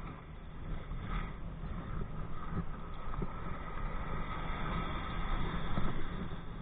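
Steady wind rumble on a body-worn camera's microphone, with water rushing past a kite-pulled kayak. A faint steady whine sits above the rumble.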